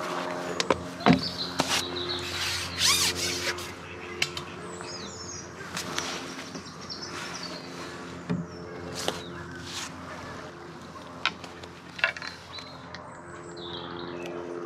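Small birds chirping over a steady low hum, with scattered sharp clicks and knocks.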